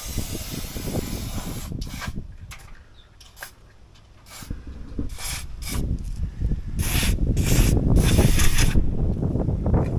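Aerosol spray grease hissing onto a fifth-wheel camper's landing-gear screw assembly, first in one long spray and then in a string of short spurts. It is being lubricated because it squeaks. Low rumbling and rattling runs underneath, louder in the second half.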